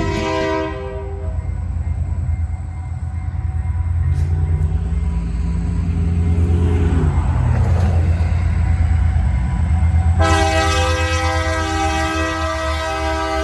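Train locomotive rumbling steadily as it runs, with its air horn sounding a chord of several notes. The horn fades out in the first second, then blows a long, loud held chord from about ten seconds in.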